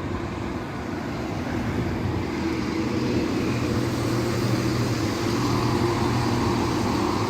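East Midlands Railway Class 170 Turbostar diesel multiple unit, its engines running with a steady low hum that slowly grows louder.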